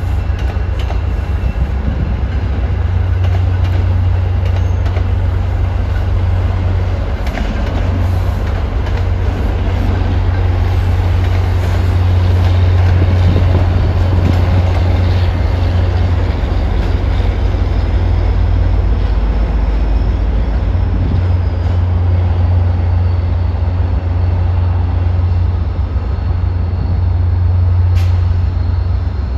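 MBTA commuter-rail train moving slowly through the station: coaches roll past, then the F40PH-3C diesel locomotive, with a steady low rumble throughout. There is a single sharp click near the end.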